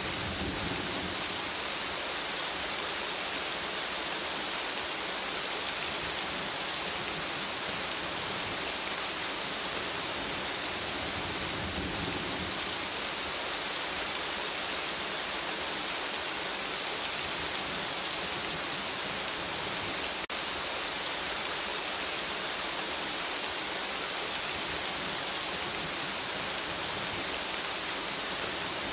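Steady rain falling on forest foliage: an even, unbroken hiss of many drops.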